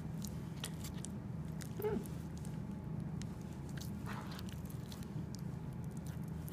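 Knife cutting through a raw chicken leg quarter at the joint between thigh and drumstick: scattered small clicks and wet crunches over a steady low hum, with a brief squeak about two seconds in.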